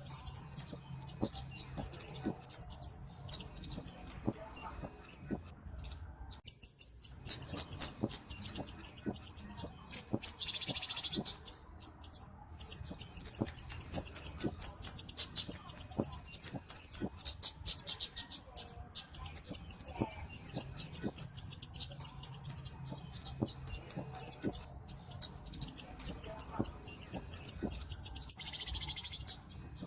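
Cabe-cabean (flowerpecker) singing: long fast runs of thin, high-pitched chirps, broken by a couple of short pauses, with a brief rustle twice.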